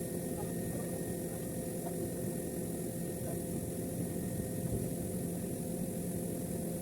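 Steady machine hum with a constant low drone over a hiss, unchanging throughout.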